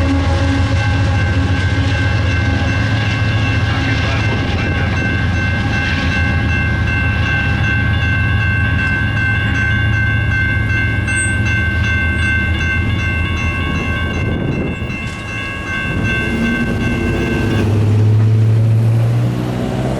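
A train rumbling past a grade crossing while the crossing warning bells ring steadily; the bells cut off suddenly near the end, and a road vehicle's engine rises in pitch as it pulls away.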